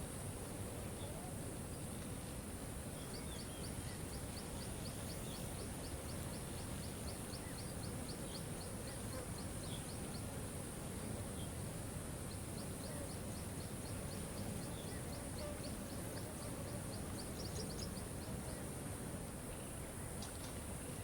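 Waterfall rushing steadily, with a constant high-pitched hiss over it and, twice, a rapid run of high ticking calls from a small animal at about four or five ticks a second.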